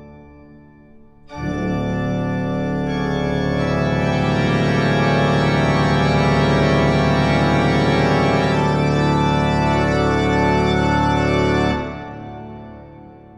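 Background music: a sustained organ chord that comes in sharply about a second in, holds steady for about ten seconds, then fades away near the end.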